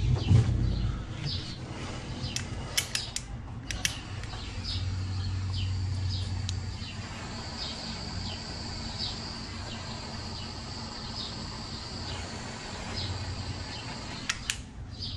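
A bird chirping over and over in the background, with a dull thump at the start and several sharp clicks from handling tools and parts, most of them about three seconds in and a couple near the end.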